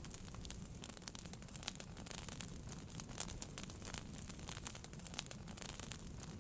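Wood fire burning in a fireplace: a steady stream of small crackles and pops over a low rumble of the flames.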